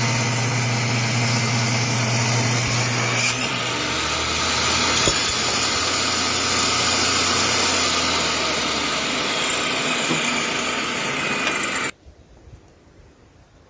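Table saw running with a steady motor whine and cutting wood, its pitch settling lower about four seconds in as the blade takes load. The sound cuts off abruptly near the end, leaving faint room noise.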